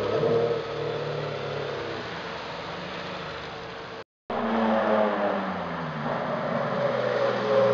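Ferrari Enzo's V12 engine accelerating away, its note fading, then, after a sudden break of a quarter second, the engine again, revving up and growing louder as the car approaches.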